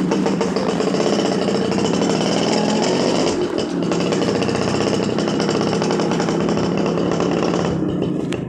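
Suzuki RC100's single-cylinder two-stroke engine running hard, its exhaust firing as a fast, even buzz, with a short dip in level about three and a half seconds in.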